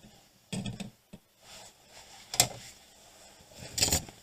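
Scattered clicks and knocks of small tools and the circuit board being handled on a workbench during a wire-jumper repair of a broken board trace. The loudest is a sharp click about two and a half seconds in, and a longer clatter comes near the end.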